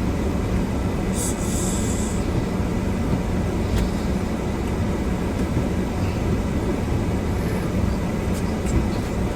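Steady low rumble inside a car during a snowstorm: strong wind buffeting the car over its running engine. A short hiss comes about a second in.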